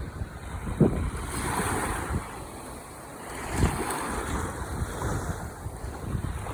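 Ocean waves breaking and washing onto the shore, with two swells of surf about a second and four seconds in. Wind buffets the microphone in low thumps.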